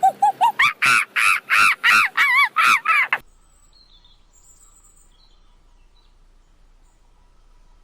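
A rapid series of loud, harsh, cawing animal calls, about three a second, that cuts off abruptly a little over three seconds in. Only faint high bird chirps remain after it.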